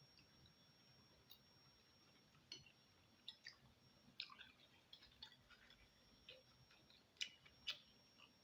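Quiet eating sounds: chewing, with scattered short, sharp clicks and clinks of a spoon against a bowl of bakso. Two of the clicks, a little past seven seconds in, are the loudest.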